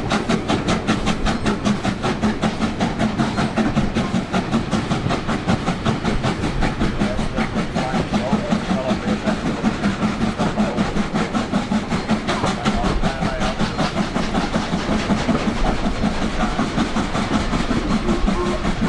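LMS Black Five steam locomotive working under steam, its two-cylinder exhaust beating in a quick, even rhythm over a steady rumble of the train.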